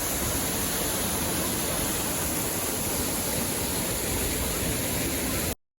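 Steady rush of a river waterfall, an even hiss with no breaks, cutting off suddenly near the end.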